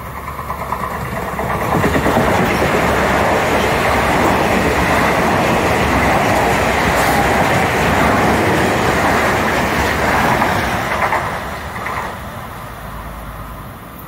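Metro-North electric multiple-unit commuter train running past at speed: a loud, steady rush of wheels on rail, with wheels clicking over rail joints. It builds over the first two seconds, holds, and dies away after about eleven seconds.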